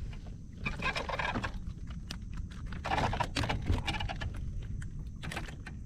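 Irregular scuffing, knocking and clicking from handling a just-landed flounder aboard a kayak, heard over a steady low wind rumble on the microphone.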